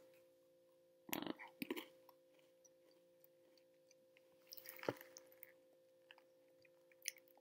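Quiet crunch of a bite into a Pejoy stick, a crisp chocolate biscuit filled with mint cream, followed by chewing, with a louder crunch about a second in and another near five seconds.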